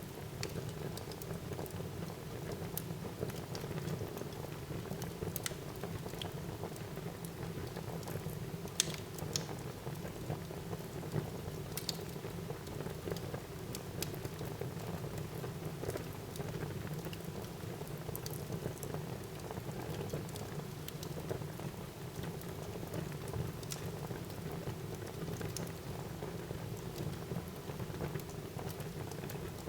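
Wood fire burning in a fireplace: a steady low rush of flames with irregular sharp crackles and pops from the burning logs, a few of them louder, about 9 and 12 seconds in.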